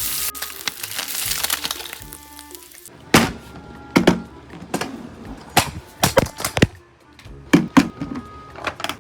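Food sizzling in a frying pan, which cuts off abruptly about three seconds in. It is followed by a string of sharp clacks and knocks. Background music plays throughout.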